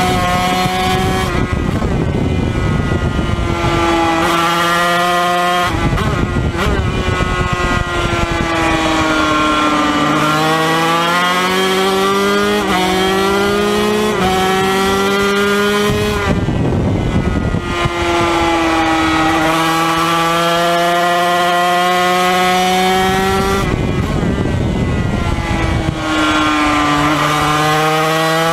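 Yamaha TZ250 two-stroke twin Grand Prix racing engine under full throttle, its note climbing through each gear and dropping sharply at each upshift. A few times the engine note gives way to a rushing noise as the throttle closes for a corner.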